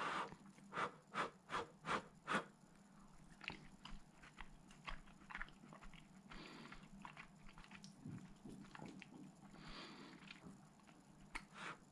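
Close-up chewing of someone eating a mouthful of lentil curry and rice, with a quick run of five soft clicks in the first few seconds and scattered smaller clicks after.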